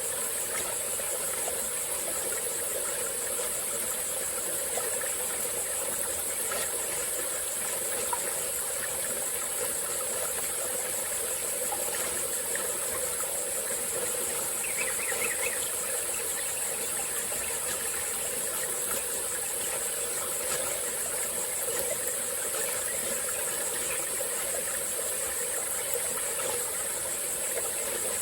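Small tropical-forest stream flowing and trickling, under a steady high-pitched chorus of insects such as crickets. A brief faint chirp is heard about halfway through.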